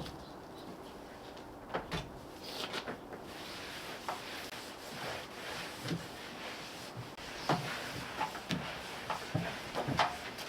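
Scattered light knocks and clatter, with a steady hiss that comes in about three seconds in.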